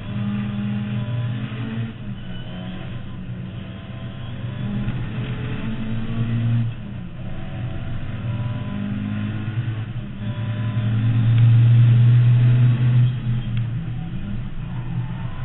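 Mk2 Ford Escort's 2.0 Pinto four-cylinder engine on 45 carburettors, heard from inside the cabin under hard track driving. The engine note climbs and falls off sharply again and again as the car is driven through the corners, with its loudest, longest pull about eleven to thirteen seconds in.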